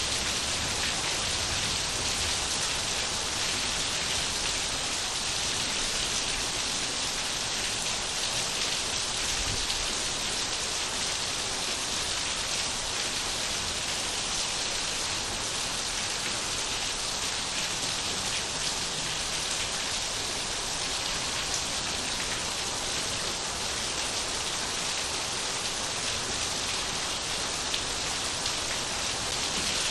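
Steady rain falling and pattering on surfaces, an even hiss of many drops with no letup.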